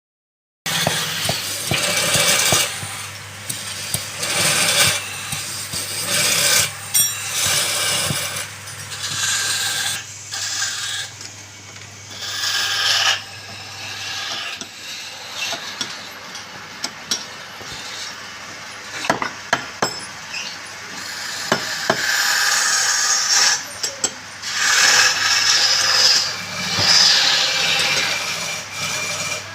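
Wood being worked with tools: uneven runs of scraping and rasping, with scattered sharp clicks, over a steady low machine hum that stops about halfway through.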